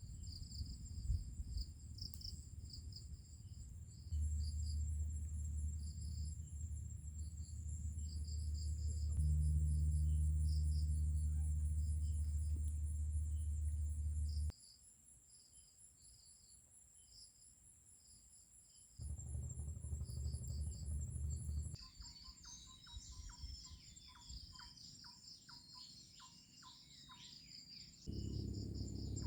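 Insects, crickets among them, keep up a steady high trill with rapid pulsed chirps over a low rumble that shifts in level at several sudden cuts. In the last few seconds chirping calls and a run of short ticks join in.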